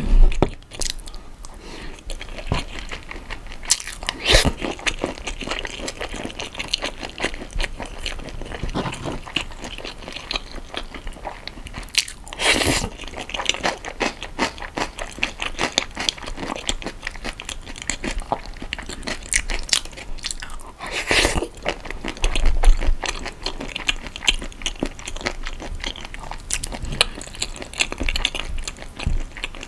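Close-miked chewing of marinated raw shrimp and rice: a steady run of small wet clicks and crunches, with a few louder bites about four, twelve and twenty-one seconds in.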